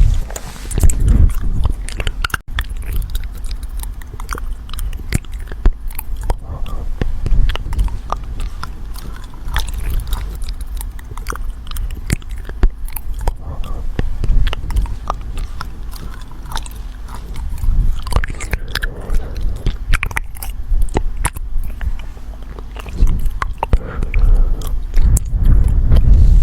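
Dense, irregular crunching clicks over a low rumble.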